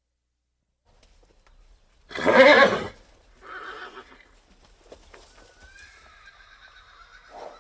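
A horse snorts loudly about two seconds in and blows out again a moment later, then gives a high, drawn-out whinny lasting nearly two seconds near the end.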